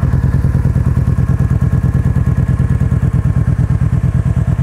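2011 Kawasaki Vulcan Voyager's 1700cc liquid-cooled V-twin idling through a Vance & Hines exhaust, a steady, even pulsing beat.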